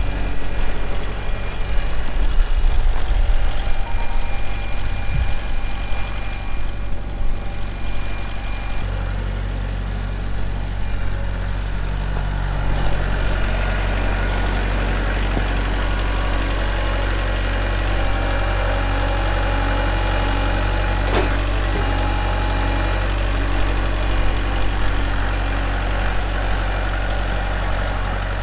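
Kubota L4701 compact tractor's four-cylinder diesel engine running steadily at idle. For the first several seconds there is an uneven low rumbling over it, then the engine settles. A single sharp metallic click comes about three-quarters of the way through.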